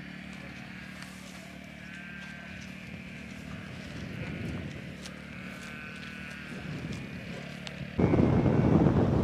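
A steady low hum, then about eight seconds in wind suddenly starts buffeting the microphone with a loud rumble.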